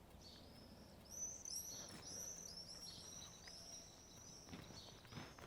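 A small songbird singing: a quick run of short, high chirps, about three a second, starting about a second in, over faint outdoor background noise.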